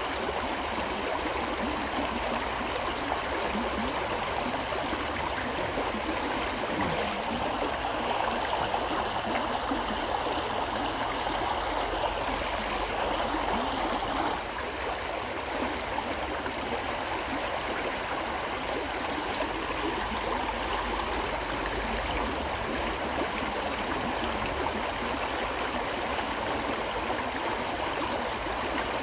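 A river flowing steadily, a continuous rush of running water, dipping slightly in level about halfway through.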